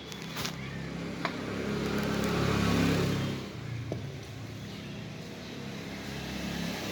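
Honda Shine 125 motorcycle's single-cylinder engine revving: the revs rise to a peak about three seconds in, drop back, then climb again near the end.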